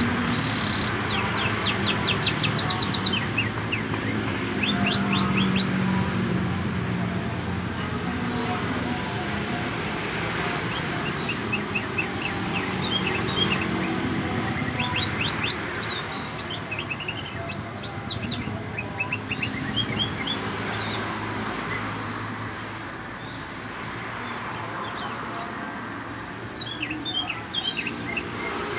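Domestic canary singing in intermittent runs of quick chirps and trills, a song trained with imitations of the greater green leafbird (cucak ijo), over steady low background noise.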